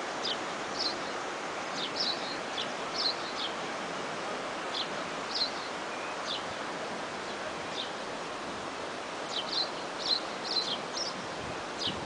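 Small birds chirping: short, sharp high chirps scattered through, bunching up near the end, over a steady rushing noise.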